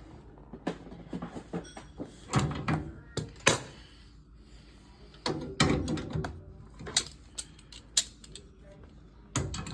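A series of irregular knocks and clatters, as of things being handled or moved, with the loudest bangs between about two and six seconds in.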